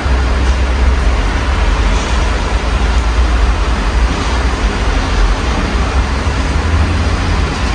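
Steady rain heard through an open window, mixed with a low, continuous rumble of city traffic.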